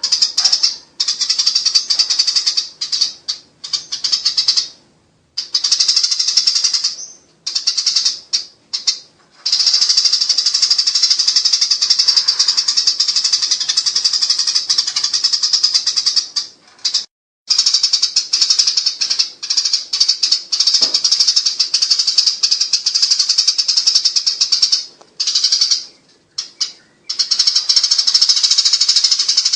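Eurasian tree sparrows chattering in fast, continuous high-pitched streams, the agitated fighting chatter called "nyerecet ngerol", running in long stretches broken by several brief pauses.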